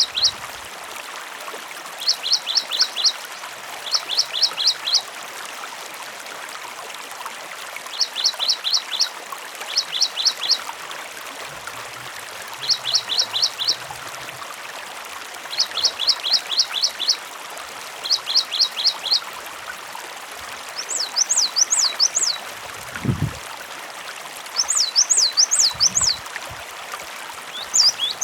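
Cinereous tit (gelatik batu) singing short, fast phrases of four to six high repeated notes every second or two over steadily trickling water. Past the two-thirds mark the phrases change to higher, rising-and-falling notes.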